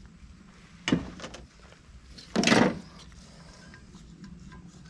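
Autolite carburetor being worked apart by hand, its parts separating over the gasket: a sharp metal click about a second in, a few lighter clicks, then a louder short scraping rasp about two and a half seconds in.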